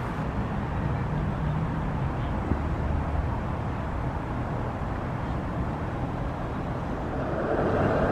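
A tram running in the street, a steady low motor hum with traffic noise, growing louder near the end as it draws closer.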